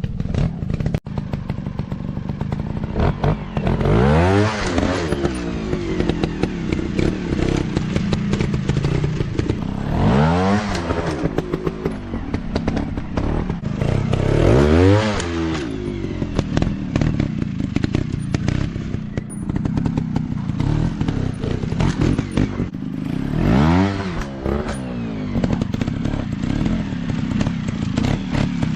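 Dirt bike engines running off-road, the revs climbing and dropping back about four times, over a constant dense crackle of clicks.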